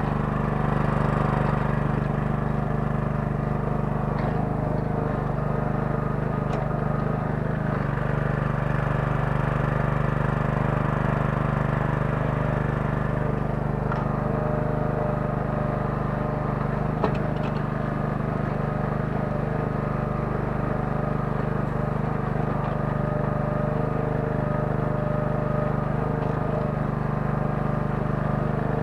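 Kellfri towable mini excavator's 9 hp engine running steadily, with a few faint clicks and one sharp knock about seventeen seconds in.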